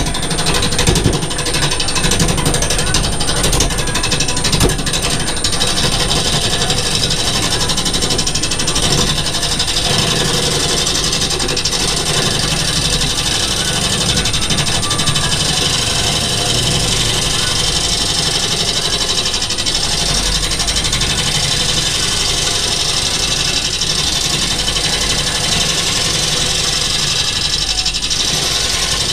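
Wood lathe running steadily while a turning tool cuts and scrapes the spinning wood-and-resin workpiece.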